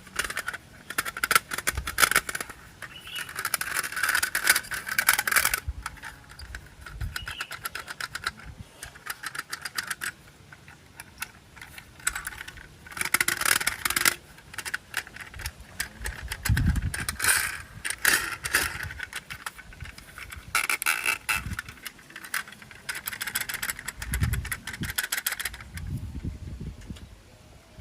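Plastic toy train set parts being handled and fitted together: many quick clicks and rattles, with scrapes and bursts of rustling.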